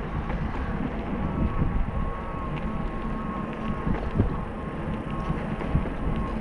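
Wind buffeting the microphone with steady low rumble from a bicycle in motion, and a faint steady whine that fades in and out.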